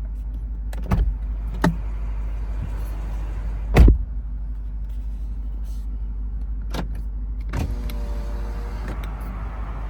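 Lexus IS 500's 5.0-litre V8 idling with a steady low rumble, under several sharp clicks and knocks. The loudest sound is a heavy thump just before four seconds in, and a short steady hum comes near eight seconds.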